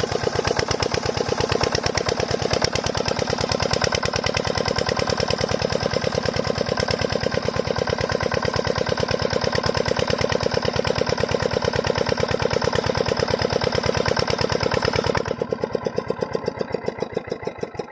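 8 HP single-cylinder diesel water-pump engine running with a steady, even chug. About fifteen seconds in it is shut off: it gets suddenly quieter and its beats slow as the engine runs down.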